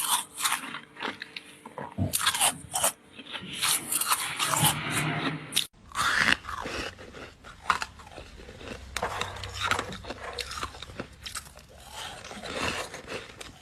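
Ice being bitten and chewed close to the microphone: a run of sharp, crisp crunches, then, after an abrupt break near the middle, a denser, softer run of chewing on crushed pieces.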